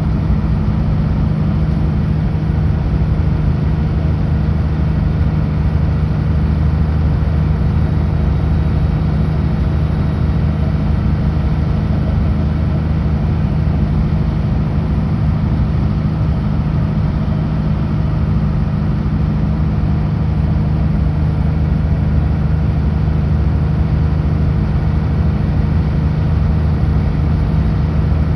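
Kenworth W900L semi truck's diesel engine running at a steady highway cruise, a constant low drone with road noise and no gear changes.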